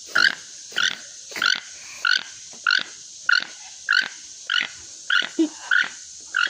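Toucan calling: a long series of short calls repeated at an even pace, nearly two a second.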